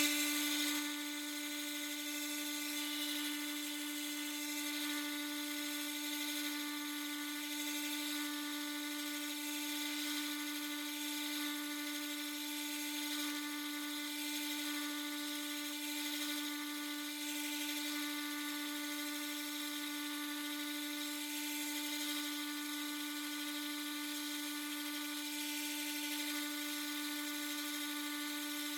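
Harbor Freight 1x30 belt sander running steadily, its small electric motor giving an even hum with a light hiss from the 1000-grit belt.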